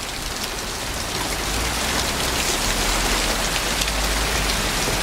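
Heavy thunderstorm rain pouring down, a dense steady patter of drops, with a low rumble underneath from about a second and a half in.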